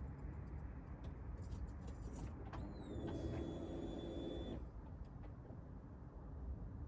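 A small electric motor in the Audi RS6 C6 spins up with a quickly rising whine, holds a steady pitch for about two seconds and cuts off. This is typical of the fuel pump priming with the ignition on before a cold start. A few faint clicks come before it over a low rumble.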